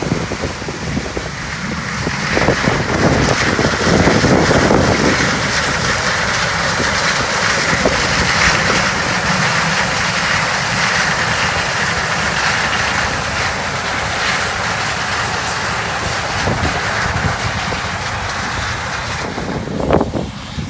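Farm harvest machinery running steadily during corn harvest, with wind buffeting the microphone. It grows louder about two seconds in, holds steady, and eases near the end.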